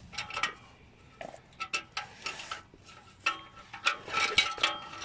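Irregular metallic clicks, scrapes and rattles as a steel muffler clamp is fitted to a Jeep YJ's exhaust pipe and its nuts are worked on, busier in the second half.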